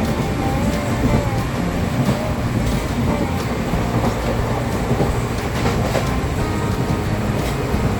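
Moving passenger train heard from inside a carriage: a steady rumble and rattle with scattered faint clicks.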